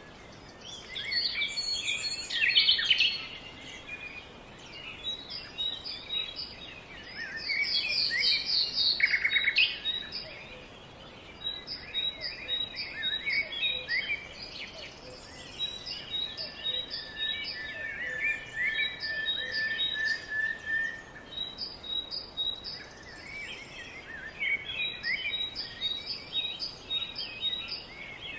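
Birds chirping and singing: many quick high chirps, trills and sweeping whistles, with louder bursts about two and nine seconds in and one held whistle a little past halfway.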